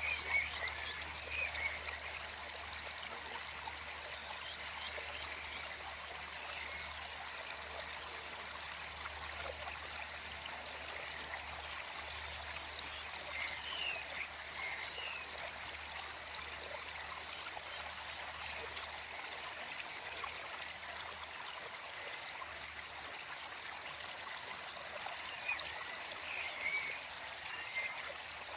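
Small forest stream flowing steadily, with birds chirping now and then: short snatches of song at the start, a few seconds in, around the middle and again near the end.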